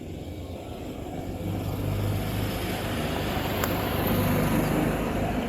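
A motor vehicle's engine hums steadily and grows louder as it approaches, loudest about four seconds in. A single sharp click sounds just before the peak.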